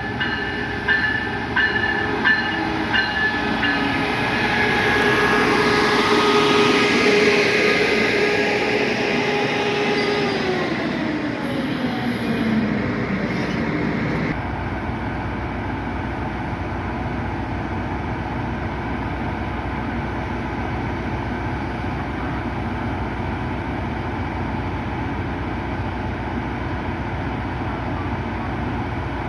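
Amtrak passenger train pulling into a station: a rumble with a few sharp wheel clacks in the first three seconds and a steady whine that slides down in pitch about ten to thirteen seconds in as the train slows. The whine cuts off at about fourteen seconds, leaving an even rumble.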